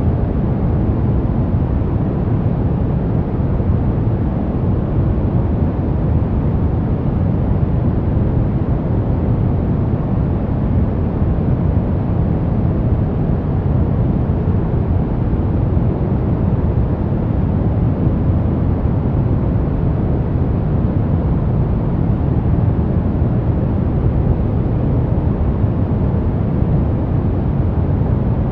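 Steady sleep-aid noise track, sold as white noise: an unbroken, even hiss that is heaviest in the deep low end, so it sounds more like a dull rumbling rush than a bright hiss. It does not change.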